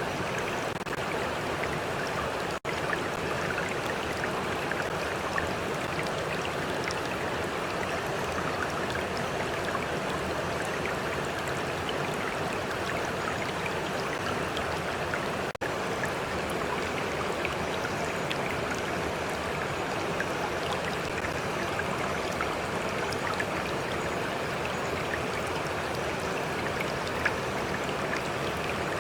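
Stream water flowing and babbling steadily, an even wash of water noise, cut by two momentary dropouts about two and a half seconds in and just past the middle.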